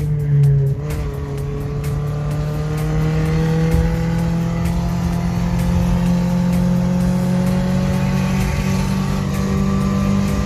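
Toyota 3SZ 1.5 litre four-cylinder engine in a VW bus running under load. Its pitch dips about a second in, as at a gear change, then rises slowly and steadily as it picks up speed.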